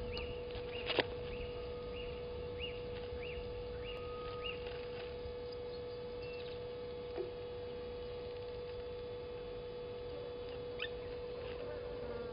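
A bird calls a short rising-and-falling note over and over, roughly twice a second, for the first five seconds, with a sharp click about a second in. A steady electrical hum runs underneath.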